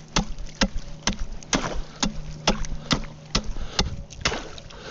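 Ice being broken by repeated blows: sharp cracking knocks about twice a second, evenly paced, over a low steady hum.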